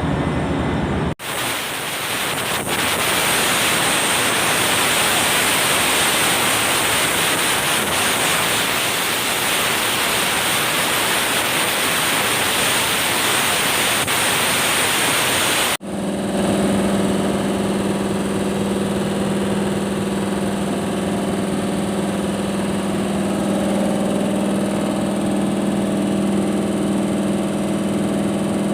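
A loud, steady rushing hiss with no pitch. After an abrupt cut about halfway through, a motor-driven machine runs steadily with a low hum.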